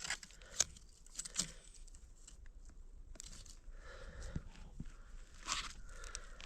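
Faint sharp clicks and crackles as a campfire is being lit from paper-napkin kindling, a few distinct snaps in the first second and a half, then a soft rustling crackle from about three and a half seconds in.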